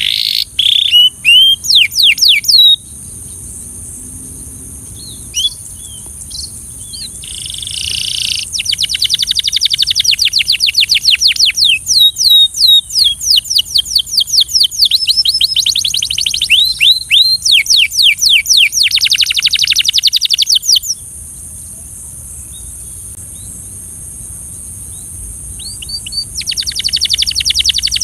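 Belgian canary singing long phrases of rapid, repeated trilled notes. The song breaks off about three seconds in, returns for a long phrase from about eight to twenty-one seconds, and starts again near the end. A steady high hiss runs underneath.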